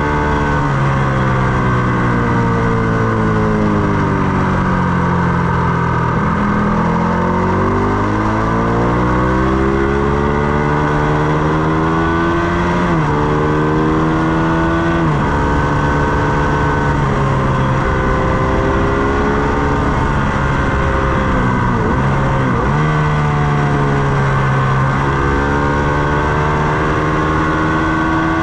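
Ducati Panigale 899's L-twin engine at track speed. The revs wind down for the first six seconds or so, then climb again through several upshifts, each marked by a sudden drop in pitch.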